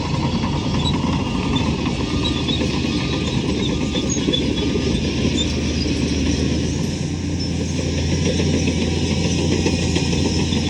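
Heavy diesel engine of earthmoving machinery running steadily, with a deep even hum.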